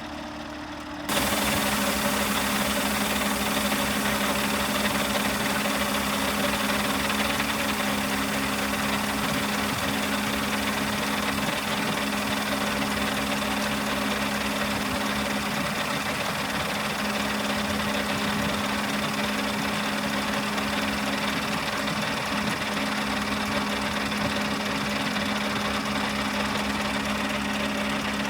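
A machine starts abruptly about a second in and then runs steadily with a constant hum over a wide hiss.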